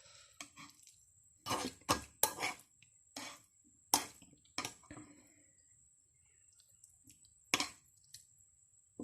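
Close-miked eating and drinking mouth sounds: a scatter of short wet smacks and slurps, bunched together in the first half with a single louder one near the end.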